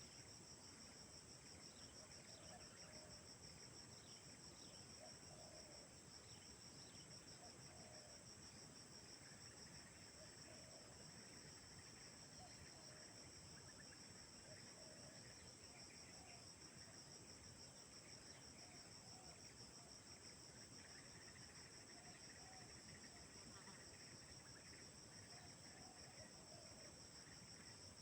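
Faint, steady chorus of crickets, a high pulsing shrill, with soft low calls repeating every second or two underneath.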